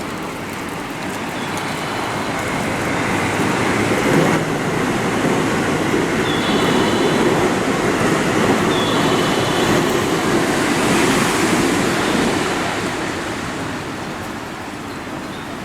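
A train running past the station platform, its wheel and track noise swelling over a few seconds, holding, then fading away. Short high electronic chirps sound twice in the middle.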